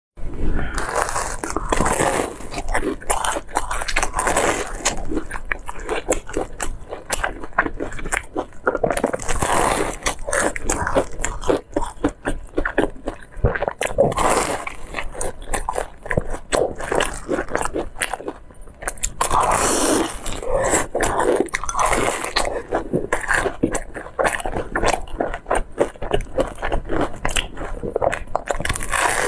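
Close-miked eating of sugar-crusted twisted fried bread: a dense run of crunching and chewing crackles, with louder bites every few seconds.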